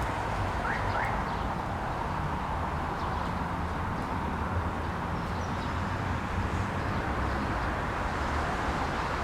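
Steady low rumble of distant city traffic, with two short rising bird chirps about a second in.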